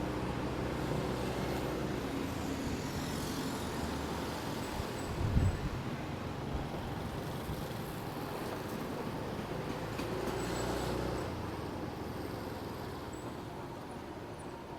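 Road traffic heard from a moving motorcycle in city traffic: the engine running steadily among passing cars. A brief loud low thump comes about five seconds in, and the sound swells slightly around ten seconds in.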